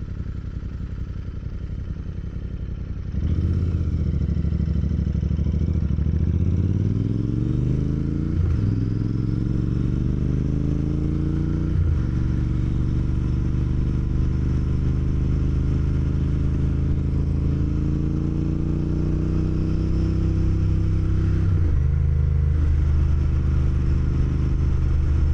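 Motorcycle engine ticking over, then pulling away about three seconds in and rising in pitch as it accelerates, with three quick breaks for upshifts before settling at a steady cruise.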